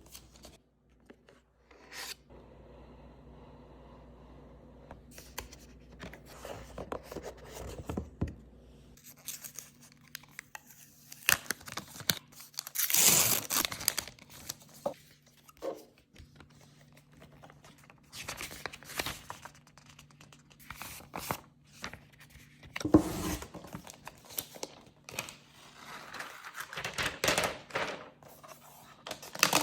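Packaging of a new MacBook Pro being unpacked by hand: paper and wrapping torn, crinkled and scraped, with small handling clicks and taps. The loudest tearing rush comes a little before halfway. A faint low hum stops about a third of the way in.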